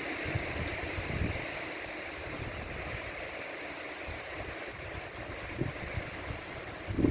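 Strong wind rushing steadily, with low buffets of wind on the microphone that come and go in gusts. The strongest gust hits near the end.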